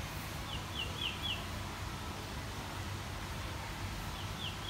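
A bird chirping: a quick run of short, high, falling notes, heard twice, over steady outdoor background rumble.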